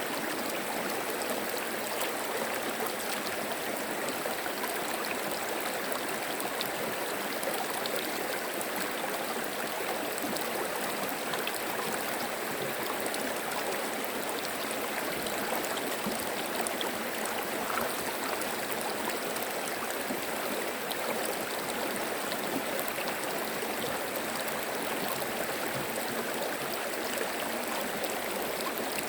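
Shallow stream of clear water babbling and trickling steadily, an even rushing with small gurgles.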